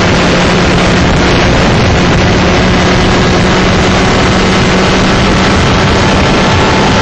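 125cc two-stroke shifter kart engine running hard at a steady pitch, with wind rushing over the microphone.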